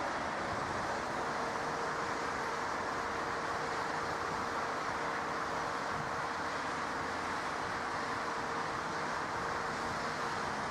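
Jet aircraft engines running: a steady rushing noise with a faint steady whine underneath.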